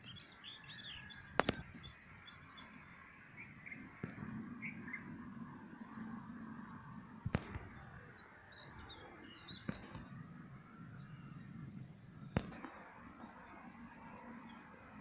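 Small birds chirping in short high calls, thickest in the first few seconds, over faint outdoor background noise. A steady high pulsing tone comes in about halfway through, and a few sharp clicks sound at intervals.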